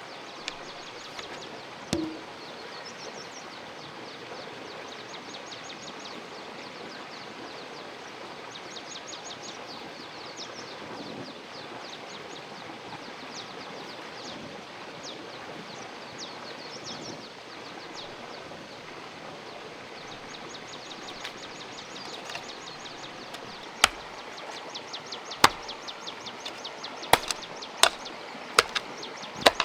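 Outdoor ambience with a steady background hiss and rapid high-pitched chirping that comes and goes. In the last several seconds come sharp single knocks, about one every second or two.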